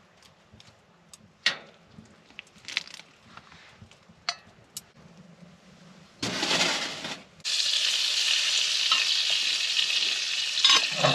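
Faint scattered clicks and knocks, then about six seconds in, pork tenderloin starts sizzling loudly in a frying pan, with a brief break just after it starts.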